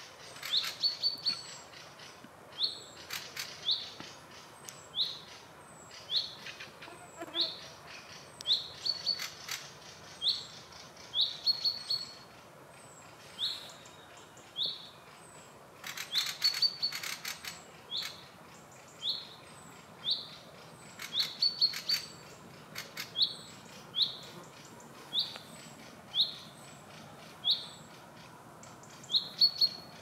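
A songbird repeating one short, high, down-slurred call about once a second, mixed with a few bursts of dry, rattling clicks, the densest about halfway through.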